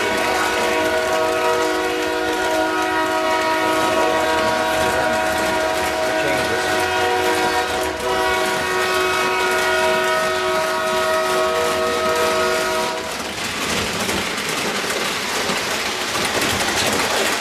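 Model train's sound unit blowing a long, steady horn of several tones together, which stops about 13 seconds in, leaving the running noise of the train on the track.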